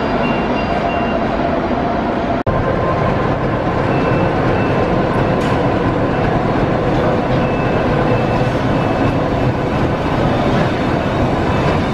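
Diesel-hauled passenger train moving slowly along the platform: a steady rumble of coaches on the rails, with faint short high squeals coming and going. The sound breaks off for an instant about two and a half seconds in.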